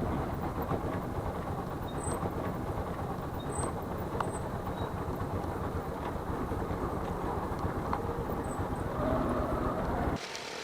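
Motorcycle riding on the road: a steady engine and road rumble mixed with wind noise on the microphone. About ten seconds in, the sound cuts abruptly to a quieter, thinner noise.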